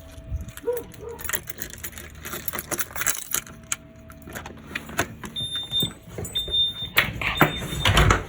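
Keys jangling among short clicks and rattles. From about five seconds in, a high electronic beep sounds repeatedly, each beep about half a second long with short gaps between.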